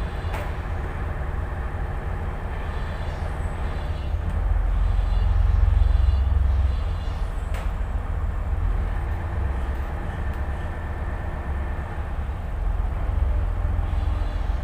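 Tugboat's diesel engines running with a deep, steady rumble that swells louder for a few seconds about four seconds in.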